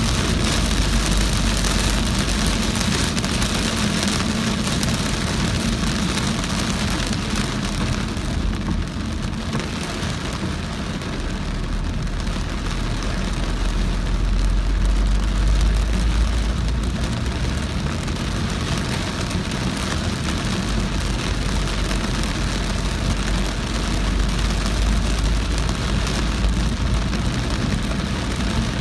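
Heavy rain drumming on a moving car, with steady low road and engine rumble from inside the car. The rain noise eases a little about a third of the way in, then returns.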